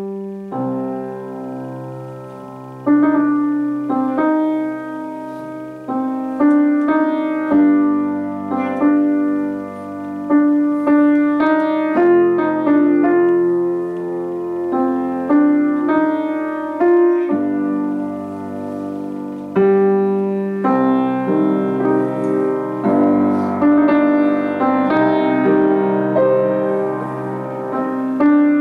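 Solo piano playing a classical piece: chords and melody notes struck one after another and left to ring and fade.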